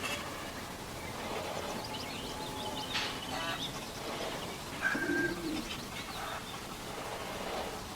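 Birds calling and chirping, with a sharp knock about three seconds in.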